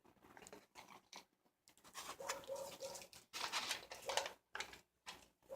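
Irregular rustling and light clicking of small carburetor rebuild-kit parts being handled, getting busier from about two seconds in.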